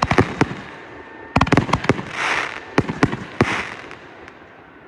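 Consumer fireworks going off in quick volleys of sharp bangs, three clusters close together, dying away near the end.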